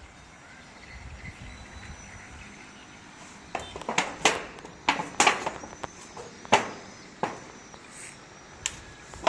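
A run of about ten sharp knocks or clicks at irregular intervals, starting about three and a half seconds in, over a low steady background noise.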